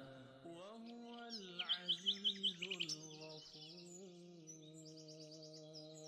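Songbirds chirping faintly: runs of short, quick high chirps and two rapid trills, over a faint held low tone.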